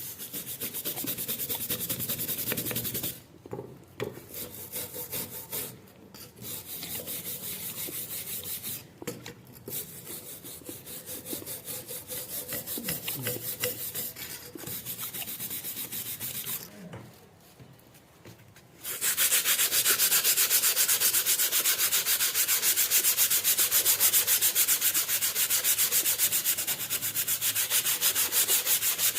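Hand sanding of a rusty steel knife blade: sandpaper rubbed back and forth in quick, rhythmic strokes to strip the rust, stopping briefly several times, then louder and steadier for the last ten seconds or so.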